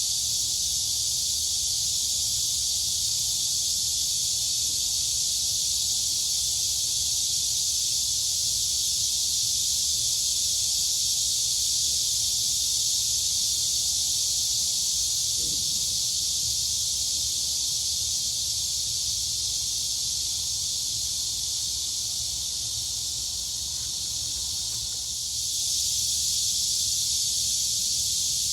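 Dense, steady chorus of crickets and cicadas: a continuous shrill buzz that thins slightly a few seconds before the end, then swells back.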